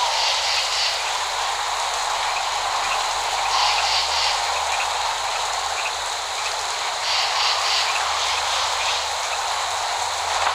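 Steady rain falling, an even hiss that brightens briefly a few times; no thunder.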